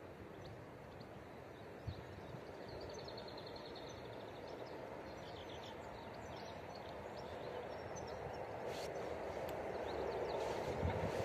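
An approaching train's rumble, faint at first and growing steadily louder, with birds chirping faintly in the first half.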